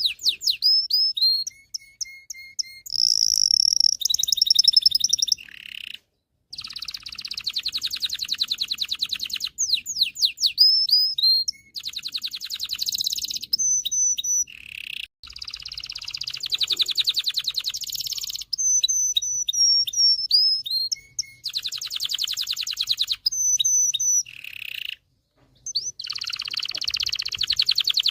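Domestic canary singing a long, varied song: fast rolling trills and rapid repeated notes alternating with sweeping and whistled phrases, with two brief pauses. It is a male canary's song of the kind played to other canaries to teach them song and bring them into breeding condition.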